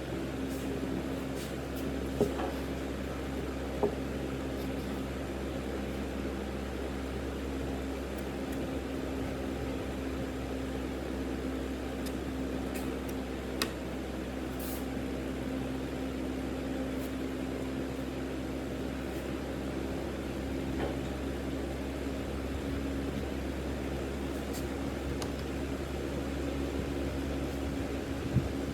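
A steady mechanical hum, like a motor or fan running, with a few sharp knocks scattered through it.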